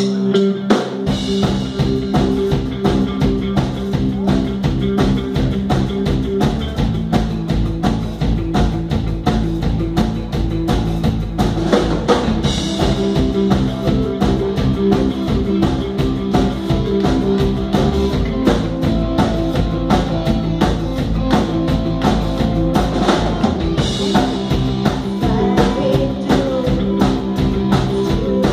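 Live rock band playing an instrumental passage: held electric guitar notes, joined about a second in by a full drum kit keeping a steady beat.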